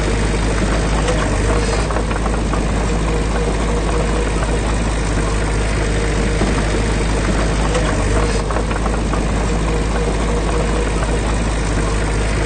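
Heavy diesel engine of earthmoving machinery running steadily, with a dense clatter of ticks over a low, even drone.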